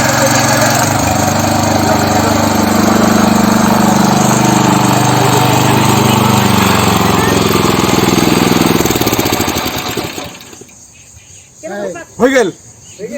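S Raja mini power tiller's 7.75 HP engine running steadily and loudly, then dying away about ten seconds in.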